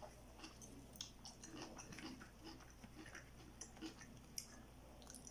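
Very faint mouth sounds of a person chewing and swallowing food and water, with scattered soft clicks.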